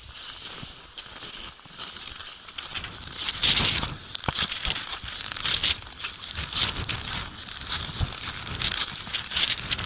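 Blizzard: wind-driven snow crackling and rustling against the microphone in irregular gusts, louder from about three seconds in.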